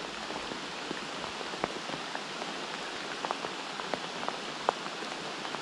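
Steady rain falling hard, a continuous hiss with scattered louder drops ticking close by at irregular intervals.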